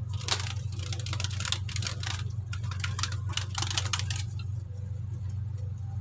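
Close handling noise from hands working braided fishing line: a dense run of crackling, rustling clicks that stops about four seconds in, over a steady low hum.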